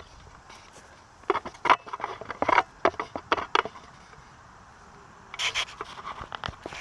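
A run of short scrapes and knocks in two clusters, a hard object being rubbed and shifted about.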